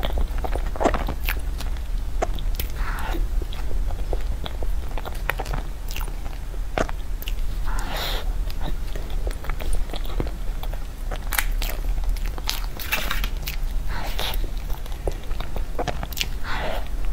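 Close-miked eating of soft tiramisu cake from a spoon: wet chewing and lip sounds with scattered sharp clicks, over a steady low hum.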